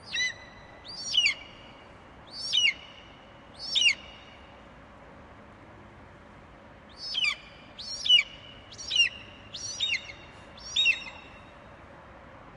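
Eagle screeching: a series of high, piercing calls, each dropping steeply in pitch. Four calls come about a second apart, then after a pause of about three seconds, five more.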